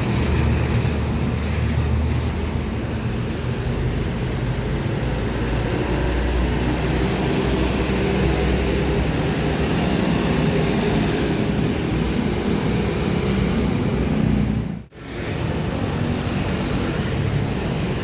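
Road traffic with a heavy truck's diesel engine and tyre noise, a steady low rumble. The sound drops out sharply for a moment near the end and comes back.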